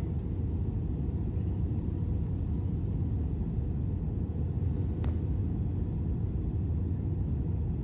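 Steady low outdoor rumble with no distinct tones, and a faint click about five seconds in.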